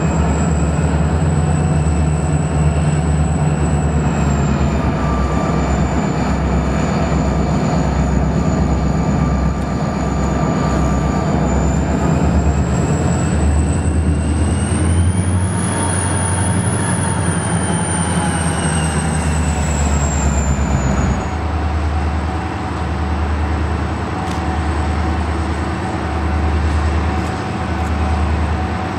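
A train passing close by: a steady rolling rumble with repeating beats from the wheels, and a thin high whine that rises and falls. About three quarters of the way through, the whine stops and the rumble carries on in slow, even swells.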